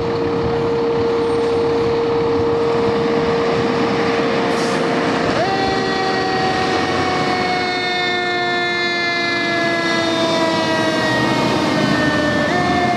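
Fire engine running on an emergency response with its warning signals sounding: a long, steady horn-like tone. About five seconds in, a higher tone takes over and slides slowly down in pitch, then jumps back up near the end.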